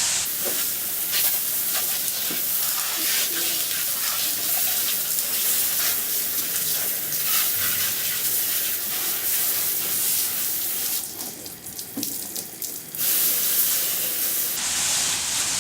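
Water spraying hard to rinse out a boat's compartments. It eases off for a couple of seconds about eleven seconds in, then runs full again and stops near the end.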